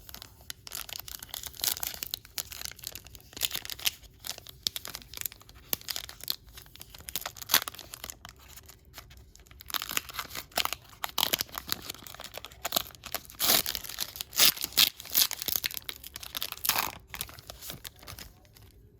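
A foil trading card pack wrapper being torn open and crinkled by hand: irregular crackling and tearing, with louder flurries partway through and near the end.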